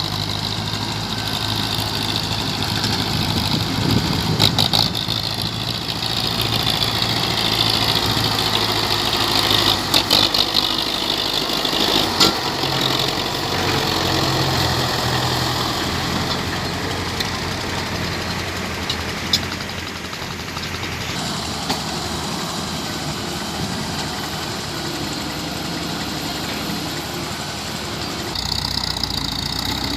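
International tractor's diesel engine running under the strain of pulling a loaded trailer, its pitch rising and falling, with a few sharp knocks along the way.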